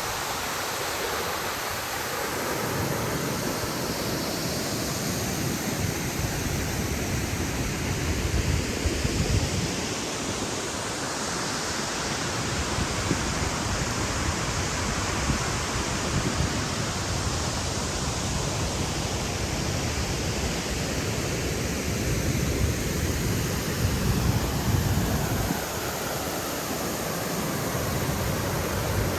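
Steady rush of water falling at a waterfall, a dense even hiss. Low buffeting, likely wind on the microphone, swells in now and then.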